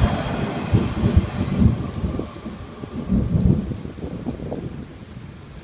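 Steady rain falling, with faint fine ticks of drops. Loud, irregular low rumbling over the first three or four seconds dies away.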